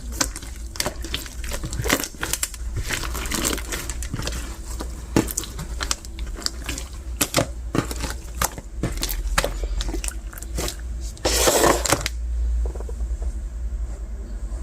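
Translucent bead slime being squeezed and worked by hand: a steady run of small crackling clicks and pops from the beads in the slime. About eleven seconds in there is a louder, denser burst of crackling that lasts under a second.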